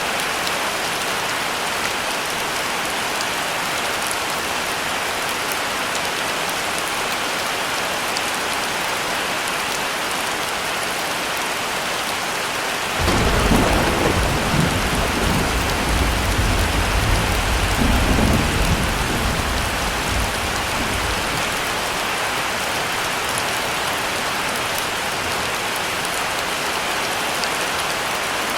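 Steady heavy rain, with a roll of thunder that breaks in suddenly about halfway through and rumbles low for about eight seconds before fading back into the rain.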